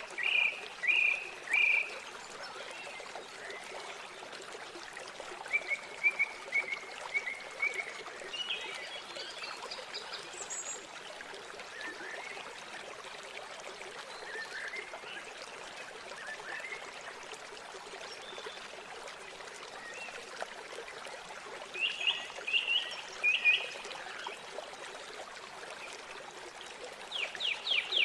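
River water running steadily, with small birds chirping in short phrases over it: a few calls near the start, more in the middle, and a fast trill of calls at the very end.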